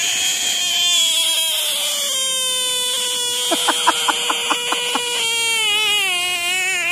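A frog's distress scream: one long, unbroken wail whose pitch sinks slowly and wavers in its last second or two, then drops away and stops just before the end.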